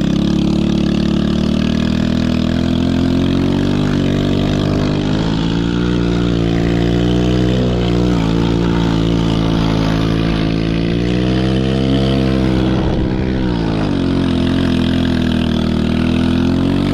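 Small 110cc single-cylinder four-stroke ATV engine running under throttle, its revs rising and falling several times, with a sharp drop about thirteen seconds in.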